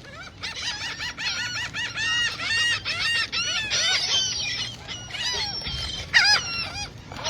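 A flock of seagulls calling over one another, with many short repeated squawks overlapping as they crowd around food being thrown to them.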